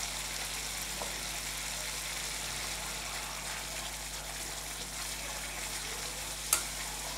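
Spice masala paste sizzling steadily in hot oil in a wok while a spatula stirs it, the paste being fried until the oil separates. One sharp clink of the spatula against the pan comes near the end.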